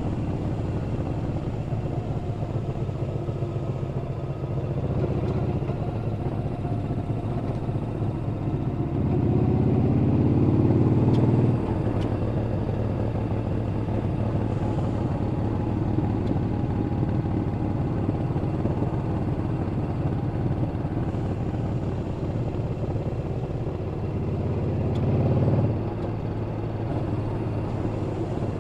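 Yamaha Bolt XVS950CU's air-cooled V-twin running steadily while the bike is ridden. About nine seconds in the engine pulls harder, rising in pitch, then drops back suddenly a couple of seconds later as the throttle closes; the same rise and sudden drop comes again near the end.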